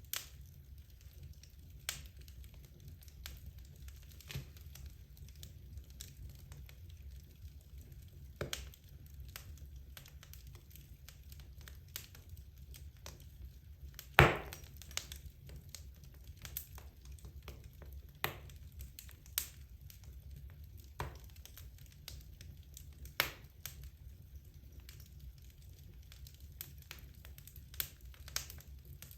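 Wood logs burning in a fireplace, crackling with irregular sharp pops, the loudest about halfway through, over a steady low rumble of the fire.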